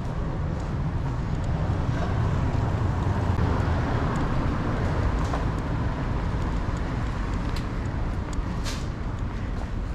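Street traffic, with a motor vehicle passing: a low rumble that swells to its loudest a few seconds in and then fades. A short hiss comes near the end.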